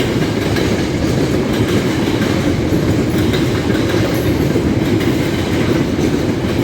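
A freight train's wagons rolling past on the track: a loud, steady rail noise.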